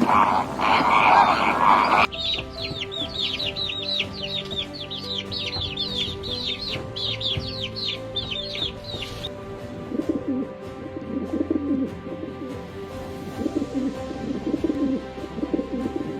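Animal calls: a lion-like roar that cuts off about two seconds in, then a rapid run of high, falling bird-like chirps until about nine seconds, then lower cooing calls.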